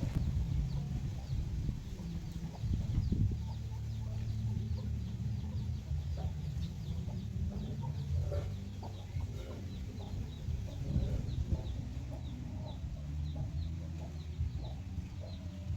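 Free-range chickens clucking low and busily, over a steady run of short, high peeps repeating about two or three times a second, typical of chicks.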